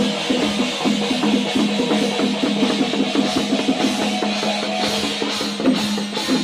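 Music with fast, even drumming, about seven strokes a second, over a steady low tone.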